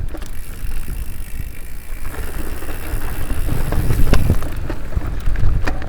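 Mountain bike riding along a dirt trail, with wind buffeting the microphone and scattered knocks and rattles from the bike.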